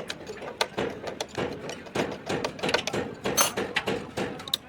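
Metal hand tools clicking and clinking against engine parts: a quick, irregular run of sharp metallic clicks.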